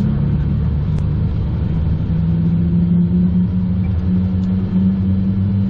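Cockpit noise of a Learjet 45XR: a steady low rumble with a hum of several tones from its turbofan engines, one tone stepping up slightly in pitch about two seconds in.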